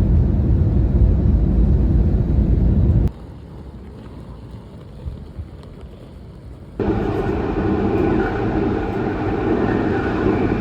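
Steady running noise inside a moving train carriage, a low rumble. It drops off abruptly about three seconds in, then comes back with more mid-range noise near seven seconds: sudden changes typical of clips cut together.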